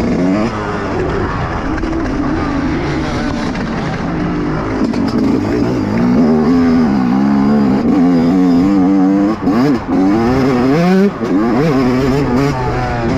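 Motocross bike engine revving as it is ridden, its pitch rising and falling with the throttle, with a few brief drops where the throttle is shut off about two thirds of the way through.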